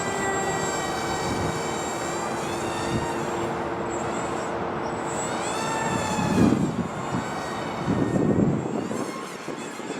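Twin 1106-size brushless motors of an RC flying wing whining with small 3-inch props, the pitch gliding up and down as the throttle and distance change. Twice, gusts of wind rumble loudly on the microphone, about six and a half and eight seconds in.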